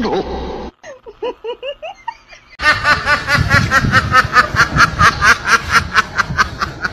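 Rapid, repeated laughing, about five bursts a second, starting about two and a half seconds in after a few short high-pitched squeaks.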